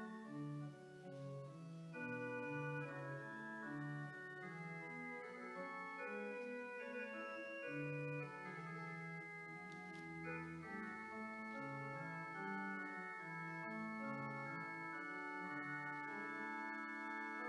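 Organ playing slow music: held chords over a moving bass line, the notes changing every second or so.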